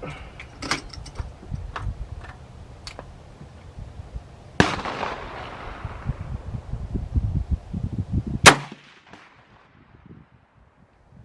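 Two rifle shots from an RPK-pattern light machine gun fired single, about four seconds apart. The first has a long echoing tail and the second is louder and sharper, with a few faint sharp cracks before them.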